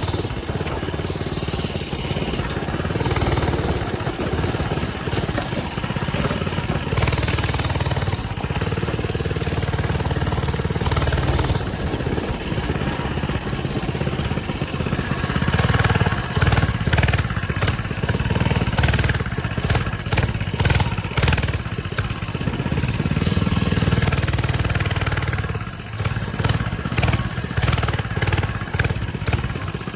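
Coleman mini bike's small single-cylinder engine running as it is ridden, its pitch and level rising and falling with the throttle. Broad rushing noise runs over it, with many short bursts in the second half.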